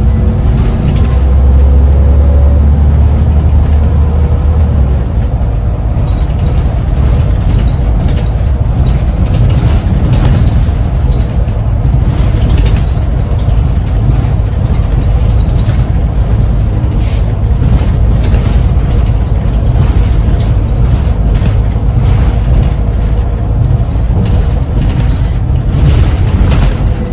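Scania OmniCity single-deck bus on a Scania CN94UB chassis under way: a steady engine drone and road rumble, with a rising whine in the first few seconds as it picks up speed and a couple of sharp rattles later on.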